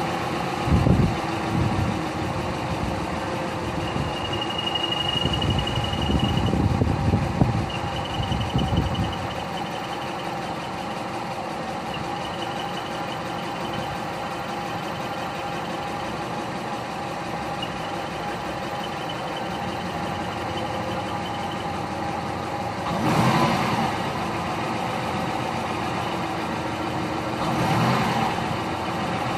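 Subaru Legacy B4 idling with an abnormal noise from the clutch, which the owner says stops when the clutch pedal is pressed. A thin high whine comes and goes through the middle, and there are two brief louder rushes of sound near the end.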